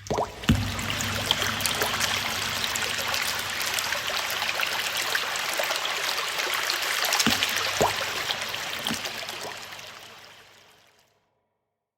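Flowing, splashing water with a sharp splash about half a second in and a few low thuds later, fading out to silence near the end.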